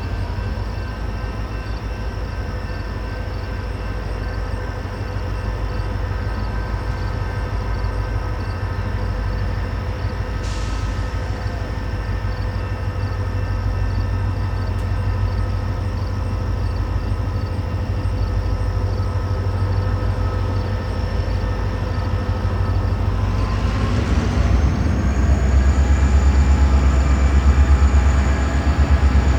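Diesel locomotives of a freight train moving slowly, a steady heavy engine rumble with a high whine over it. Near the end the rumble grows louder and the whine climbs in pitch.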